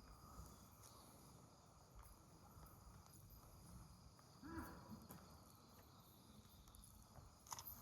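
Near silence: faint outdoor ambience, with a brief faint sound about halfway through and a click near the end.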